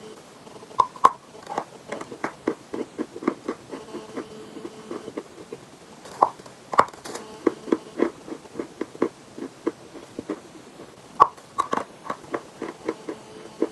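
Chalk being bitten and chewed close up: a rapid run of small dry crunches, several a second, with a few louder, sharper bites scattered through.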